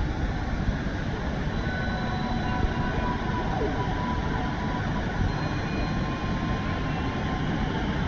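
Rain Vortex indoor waterfall: a steady rush of water falling into its pool.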